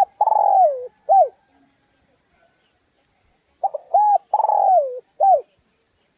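Spotted dove cooing: the end of one phrase at the start and a full phrase about three and a half seconds in, each a few short coos, a longer falling coo and a short closing coo. This is the urgent 'thúc gù' coo used as a lure call to draw spotted doves to a trap.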